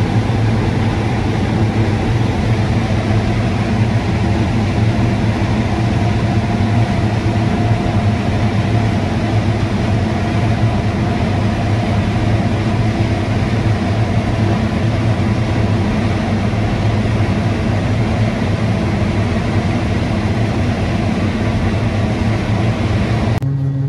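Combine harvester's engine and threshing machinery running steadily under load while harvesting corn. Near the end the sound changes abruptly to a steadier, cleaner hum.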